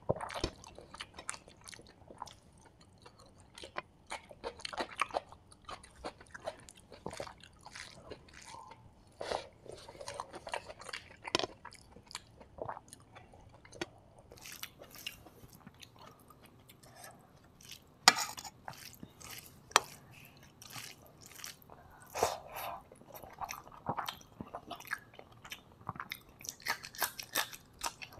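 Close-miked chewing and wet mouth sounds of rice and beetroot thoran being eaten by hand: irregular smacks and clicks, with fingers squishing rice on the plate between mouthfuls. One sharper, louder click about two-thirds of the way through.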